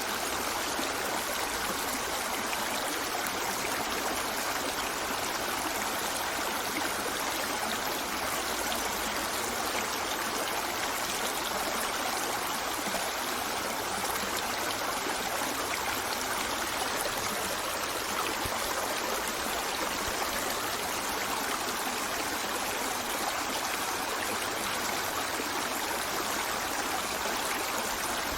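Stream of running water, a steady, even rush with no breaks or distinct events.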